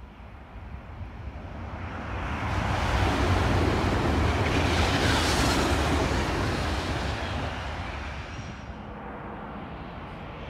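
Italo high-speed electric train passing at speed. A broad rush of wheel and air noise builds over the first three seconds, is loudest around the middle, then fades away.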